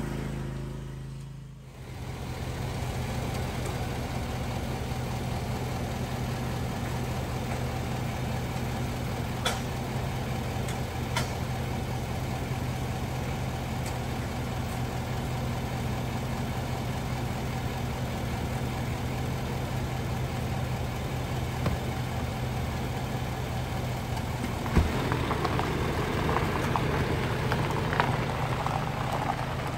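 Vehicle running on the road, heard from inside the cab: a steady low engine hum with road noise. There is a thump about 25 seconds in, after which a louder hiss comes in.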